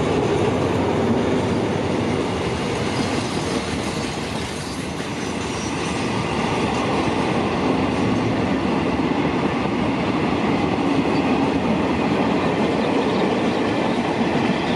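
Freight train rolling through the station: a loud, steady rumble of steel wheels on the rails.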